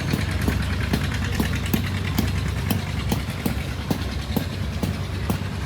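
An old engine running steadily at low speed, with an even beat of sharp knocks a little over two times a second over a low hum.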